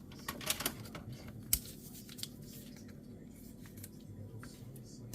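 A carton of whipping cream being handled and opened: scattered light clicks and rustles of packaging, with one sharper click about one and a half seconds in.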